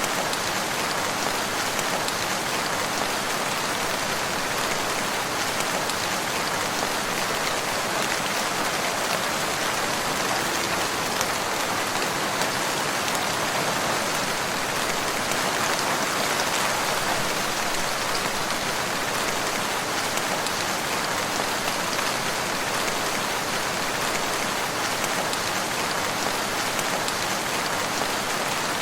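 Steady rain falling, an even hiss of many drops on surfaces that holds constant throughout.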